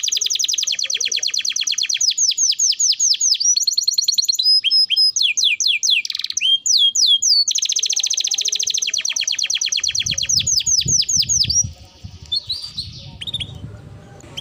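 Domestic canary singing vigorously in long, fast trills of rapidly repeated high notes, switching between different syllable types. The trilling loosens into slower, separate notes around the middle, picks up again, and gives way to softer scattered notes near the end.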